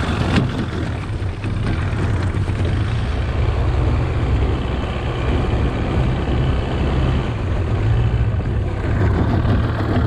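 Boat engine running steadily at low speed, a continuous low rumble, with a brief knock about half a second in.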